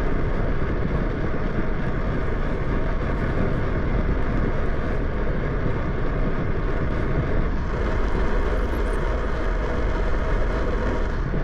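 Steady wind rush and rumble on the microphone of a camera carried on a moving bicycle, mixed with road noise from the ride.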